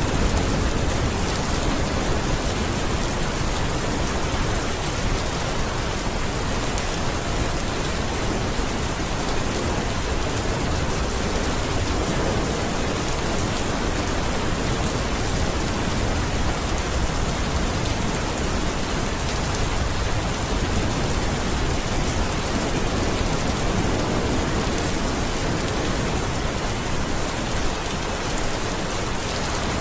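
Steady rain falling on a surface, a dense even patter with no breaks or distinct drops standing out.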